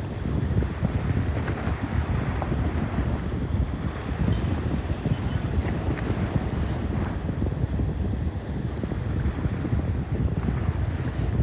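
Bosphorus sea water washing and lapping steadily, with wind buffeting the microphone and adding a heavy low rumble.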